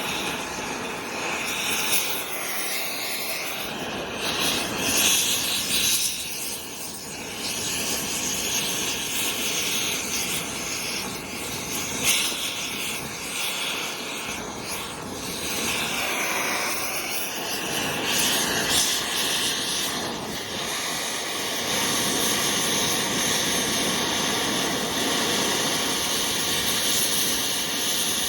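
Oxy-acetylene torch flame running with a steady loud hiss as it melts the steel of a pistol, its tone shifting as the flame plays over the metal. A single sharp crack about halfway through.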